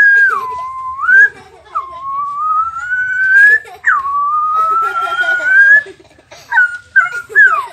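A boy whistling with his mouth in imitation of other sounds. He makes long, slow rising glides that drop back sharply, then a quick run of short falling whistled notes near the end.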